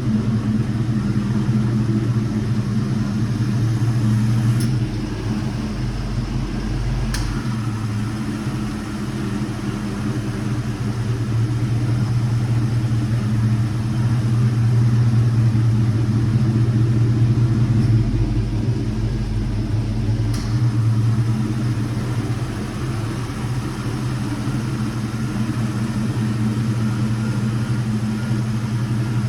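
1985 Chevrolet Silverado's 305 small-block V8 running steadily with a low, even hum, with a few faint clicks.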